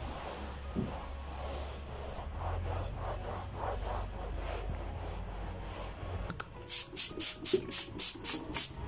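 Rhythmic rubbing or scraping strokes over a steady low hum: softer strokes about three a second in the middle, then about nine quick, louder strokes near the end.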